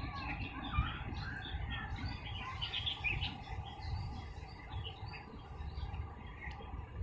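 Several small birds chirping and twittering, many short overlapping calls throughout, over a low background rumble.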